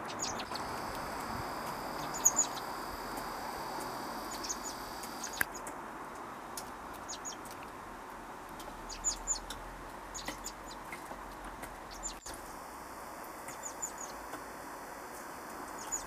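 Small birds chirping outdoors: short, high chirps, singly or two or three together, every second or so over a faint, steady outdoor background.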